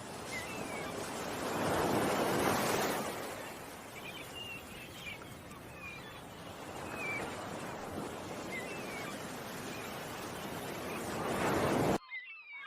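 Ocean surf washing in, swelling about two seconds in and again near the end, with small birds chirping over it. The recording cuts off abruptly near the end into a quieter bed of chirps.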